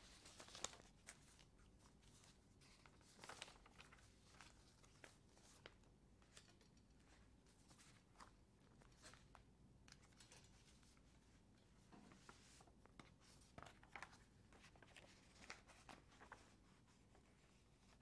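Near silence: room tone with faint scattered clicks and rustles.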